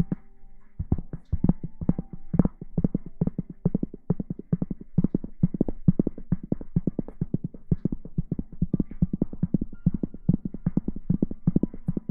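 Rapid soft thumping taps, several a second in an uneven rhythm, with faint steady tones behind them.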